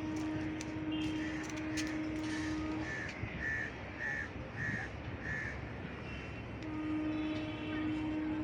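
A crow cawing in a run of about eight short caws, roughly two a second, over a steady low hum that stops about three seconds in and returns near the end.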